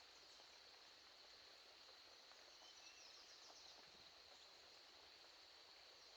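Near silence: faint rural outdoor ambience with a steady high insect drone and a faint short chirp about halfway through.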